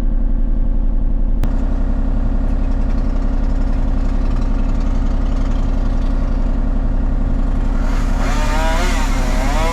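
A heavy motor vehicle engine running steadily at a constant speed, with a single sharp click about a second and a half in.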